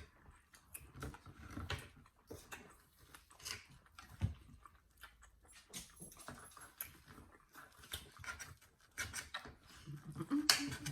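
Pet dog making small noises close by, among scattered light clicks and taps.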